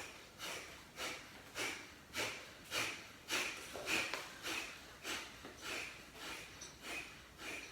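Kapalbhati breathing: a steady run of sharp, forceful exhalations through the nose, a little under two a second, each a short puff of air.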